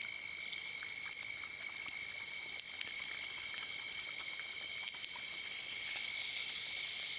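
Night insects, crickets trilling steadily at two high, even pitches, over faint scattered crackling from a puri frying in hot oil.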